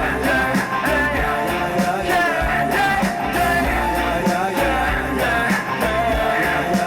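Pop-rock band music with guitar, a steady drum beat and a sung melody line.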